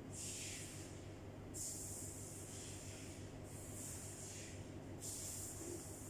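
Close-up breathing through the nose, four breaths in a row, each a hiss of about a second.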